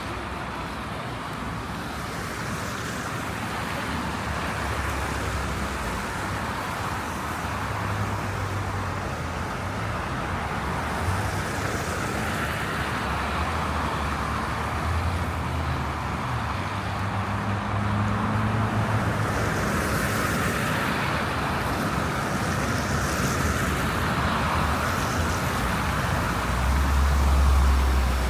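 Street traffic: cars driving on snow-covered roads, a steady hum of engines and tyres, with one vehicle passing close and louder near the end.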